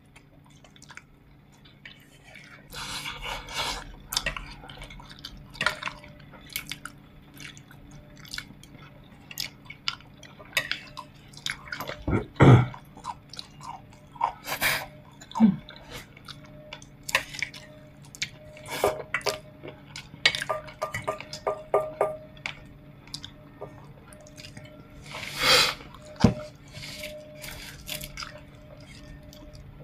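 People chewing and gnawing braised pork ribs: wet smacks and scattered clicks throughout, with a few louder bursts.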